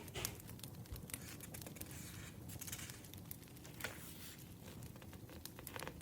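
Burning firewood crackling, with irregular sharp pops and snaps over a low steady rumble.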